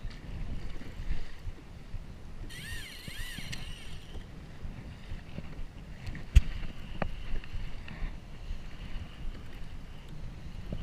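Wind rumbling on the microphone and water moving around a fishing kayak. A brief high, wavering sound comes about two and a half seconds in, and a sharp click about six seconds in.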